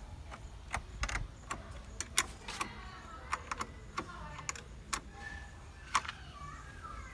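A dozen or so scattered sharp clicks and metallic knocks of hand tools and battery hardware being handled while a car battery is fitted, irregularly spaced over a low steady background.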